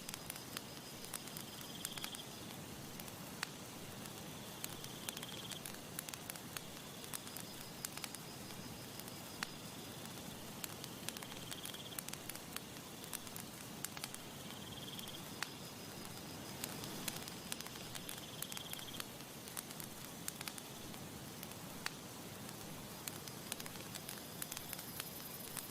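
Wood campfire crackling, with frequent small sharp pops and snaps over a steady soft hiss. Faint high thin trills come and go in the background.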